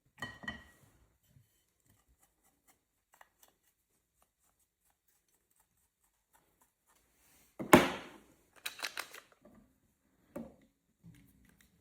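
Small parts of a model turbofan kit being handled and fitted together: scattered clicks and taps, with one sharp knock about two-thirds of the way through followed by a quick run of clicks.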